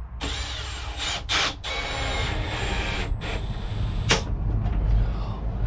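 Power drill-driver running as a screw is driven in, with a thin steady whine over the motor noise and a short pause about three seconds in. A sharp knock about four seconds in.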